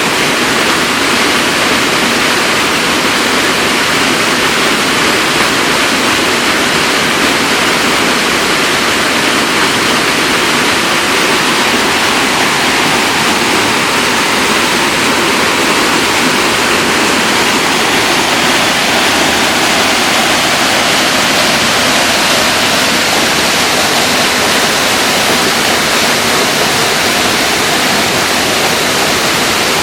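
Waterfall cascading, a loud steady rush of falling water.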